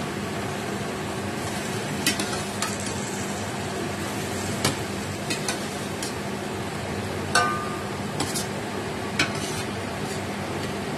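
Napa cabbage and fried tofu puffs sizzling in a stainless steel pan on a gas stove: a steady hiss with scattered sharp pops. The loudest of these, about seven seconds in, has a brief metallic ring.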